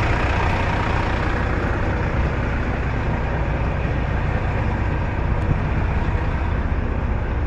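Heavy truck engine running with a steady low rumble and no change in pace.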